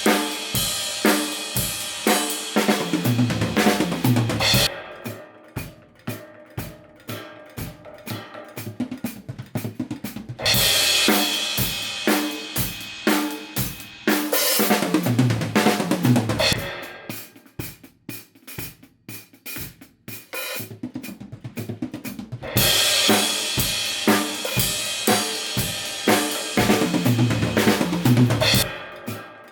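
Drum kit playing a steady beat with snare, bass drum, hi-hat and cymbals. Loud, bright passages alternate with quieter, duller ones in which the cymbal wash largely drops away, consistent with the kit played first open and then with Vic Firth rubber practice mutes on the drums and cymbals.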